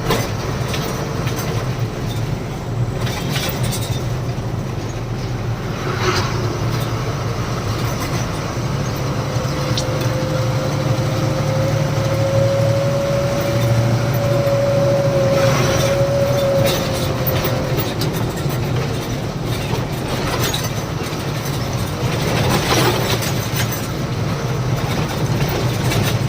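Loaded truck running down the highway: steady engine and road noise with a low hum. A steady whine rises slightly through the middle stretch and fades out, and there are a few short knocks or rattles.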